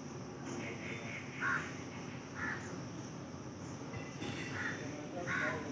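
Short bird calls repeating about once a second over steady background noise.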